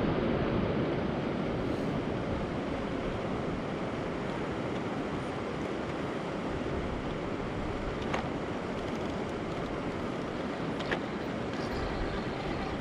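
Steady rushing wind noise on the action camera's microphone, with two faint clicks about eight and eleven seconds in.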